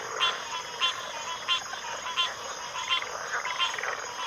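Chorus of frogs calling together, dense and continuous, with one sharp call standing out and repeating about every two-thirds of a second.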